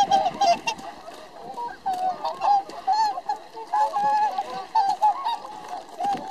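A flock of whooper swans calling, many short honking calls overlapping without a break.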